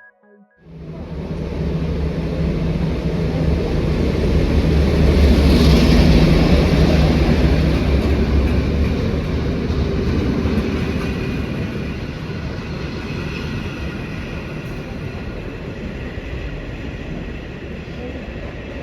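T43 diesel locomotive passing, its engine's low hum and the train's rumble swelling to a peak about six seconds in, then slowly fading.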